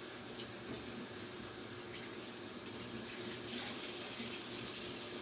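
Kitchen sink tap running in a steady stream while hands are rinsed under it.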